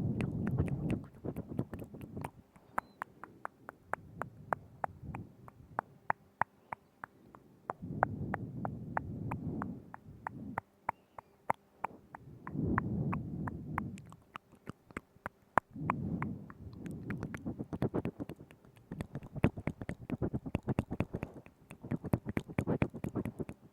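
Close-miked ASMR mouth sounds: rapid wet clicks and smacks of the lips and tongue, with a low muffled swell lasting a second or two several times.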